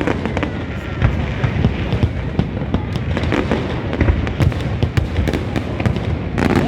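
New Year fireworks display going off without a break: a constant rumble of booms with many sharp cracks through it.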